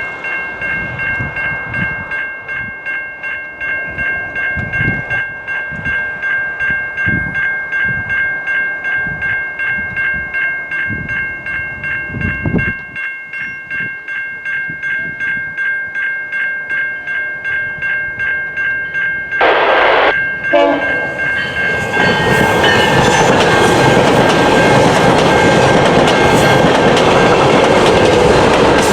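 Level crossing warning bell ringing steadily at about two strokes a second. About two-thirds of the way through, a GO train's horn sounds briefly, then the train passes close by with loud, even rumbling rail noise while the bell keeps ringing.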